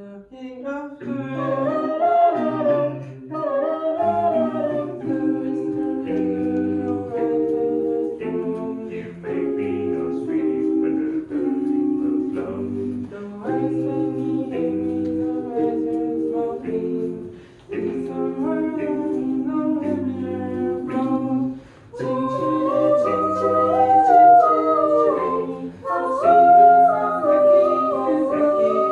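A cappella vocal group singing in close harmony without instruments, with a bass voice stepping through low notes beneath the upper parts. A few brief pauses break the phrases.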